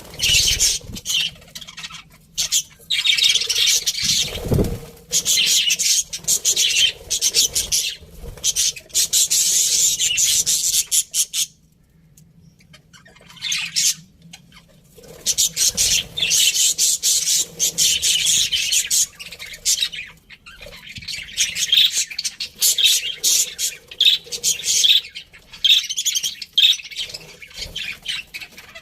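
A group of budgerigars chattering and chirping in rapid, overlapping warbles. The chatter drops to a lull for a few seconds about twelve seconds in, then picks up again. A short low thump sounds about four seconds in.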